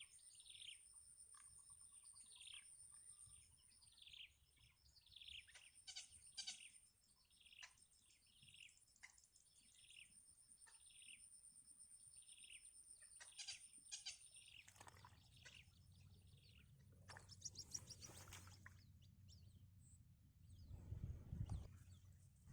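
A bird calling over and over with short chirps that fall in pitch, about one or two a second, over a steady high-pitched whine. About 14 s in the chirps stop, and a low rumbling noise takes over, loudest near the end.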